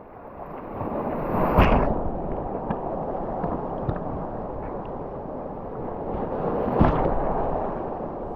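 Sea waves breaking on the beach, with two louder crashes about a second and a half in and again near the end, and wind on the microphone.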